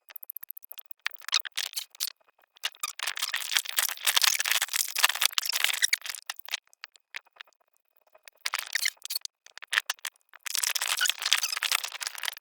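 Rattling and rustling in irregular bursts of rapid clicks: scattered at first, then a long dense stretch, a short cluster, and another dense stretch near the end.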